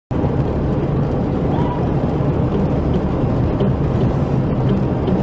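Steady low rumble of a car driving, engine and road noise, cutting in abruptly from silence.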